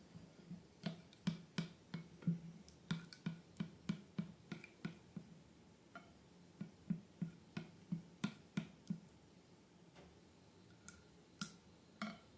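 Slime being worked by hand, making faint, short, sticky clicks and pops at an uneven pace of about two or three a second, thinning out for a moment past the middle.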